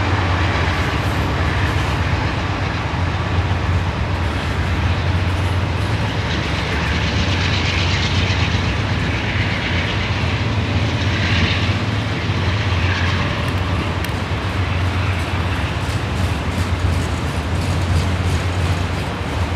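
Norfolk Southern freight train of autorack cars rolling past: a steady low rumble of steel wheels on rail, with some higher rattling noise in the middle.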